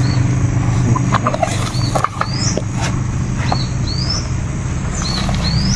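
A bird calling over and over, about every second and a half: a short high note followed by a rising whistle. Beneath it runs a steady low hum, with a few light knocks near the middle.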